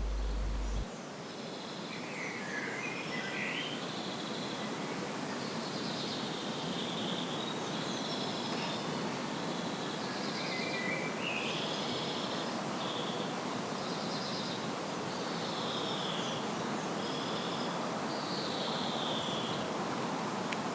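Birds chirping, short calls repeating every second or so, over a steady outdoor hiss.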